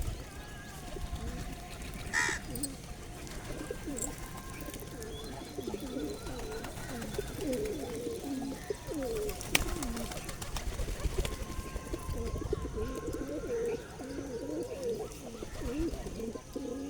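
Several pigeons cooing continuously in overlapping low calls, with a sharp click about halfway through.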